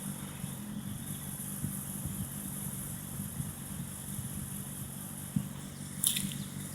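A diesel engine running steadily, heard as a low hum, with a few light knocks and a brief high hiss near the end.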